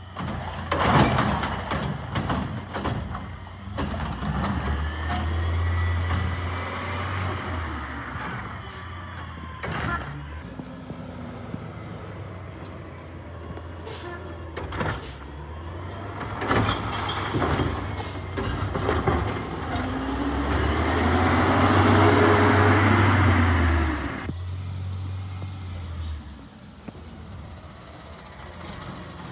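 Peterbilt 520 garbage truck with a Heil Curotto Can revving hard as the arm and can work, with repeated bangs and clatter of bins and lid. The engine comes up twice, the longer and louder rev about two-thirds through, with a hiss.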